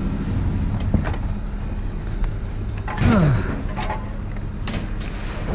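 A vehicle engine idling steadily, with scattered clicks and knocks over it and one brief sound falling in pitch about three seconds in.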